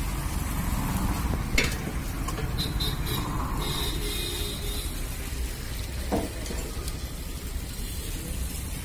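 Rice-and-urad-dal batter sizzling as it shallow-fries in a multi-cavity appe (paniyaram) pan, over a steady low rumble. Two sharp knocks sound, about one and a half seconds in and again about six seconds in.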